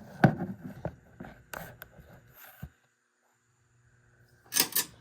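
Scattered knocks and clicks of handling, then a short noisy rustle near the end, over a faint low hum.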